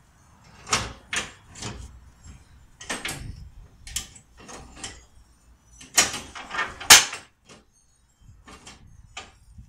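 Irregular knocks, clanks and scrapes of mower deck parts being handled and worked into place during reassembly, about a dozen in a row, the loudest pair about two-thirds of the way through.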